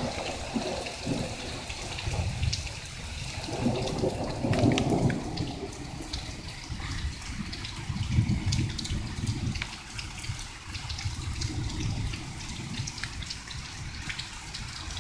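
Low thunder rumbling on and on, swelling and fading, under steady rain with raindrops pattering.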